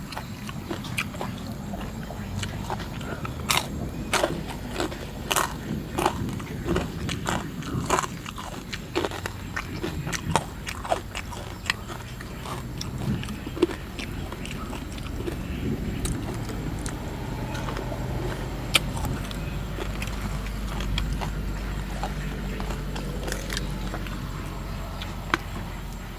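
A person eating crunchy food close to the microphone: many sharp crunches and bites in the first half, then quieter, steadier chewing.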